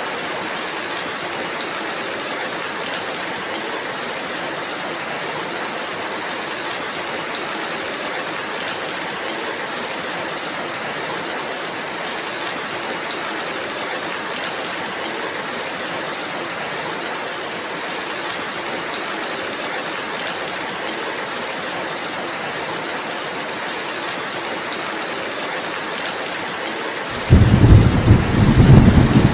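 Steady, even rainfall. Near the end a loud, low rumble of thunder breaks in suddenly and carries on.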